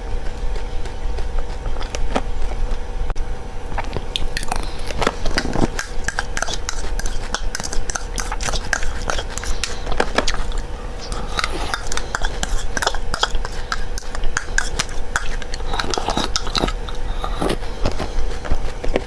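Close-up crunching and chewing of small dry seeds: a dense run of sharp, crisp crackles starting about four seconds in, over a steady low hum.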